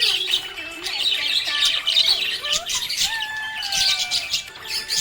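Small pet parrots chattering, with many rapid overlapping chirps and squawks and a few drawn-out gliding whistles in the middle.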